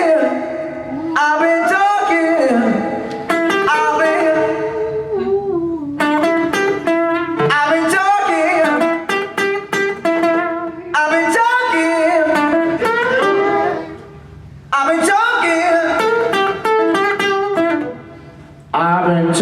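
Live band playing a song: guitar with singing, in phrases that briefly drop out twice in the second half.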